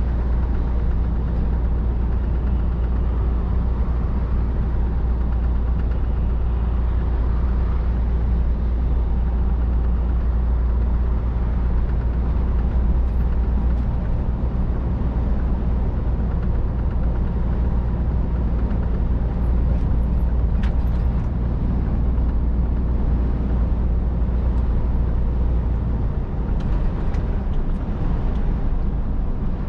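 Scania R500 truck under way: a steady, deep engine drone with road noise, unchanging throughout, and a few faint clicks late on.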